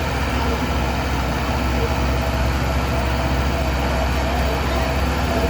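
Heavy diesel engines of earth-moving machinery, a bulldozer and dump trucks, running steadily with a deep low rumble.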